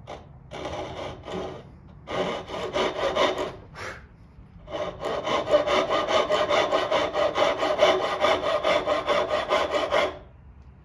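A hand tool scraping through wood in quick back-and-forth strokes. A few short passes come first, then a steady run of about five strokes a second that stops about a second before the end.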